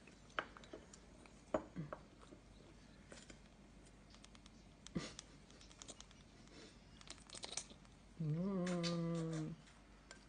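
Scattered small clicks and taps as a conure eats while being hand-fed, its beak knocking against the food and utensil. Near the end a low steady hum of about a second and a half, like a person's "mmm".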